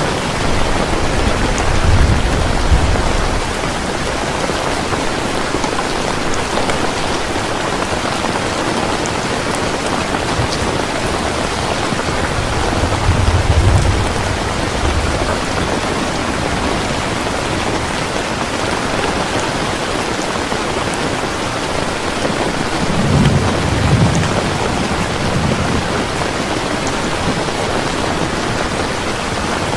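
Heavy rain falling steadily, with low rumbles of thunder three times: about two seconds in, near the middle, and again a little after three-quarters of the way through.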